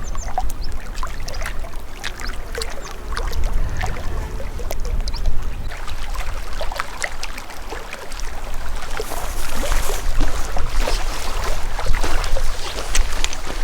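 Lake water splashing and lapping in irregular small splashes, with a steady wind rumble on the microphone. The splashing grows busier about two-thirds of the way through.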